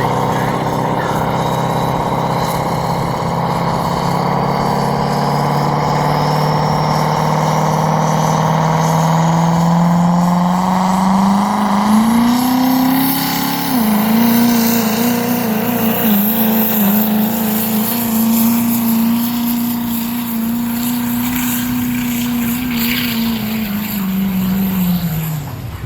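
Competition pulling vehicle's engine run flat out down the track. Its pitch climbs steadily for about twelve seconds, then holds high with a slight waver, and falls away near the end as the throttle comes off.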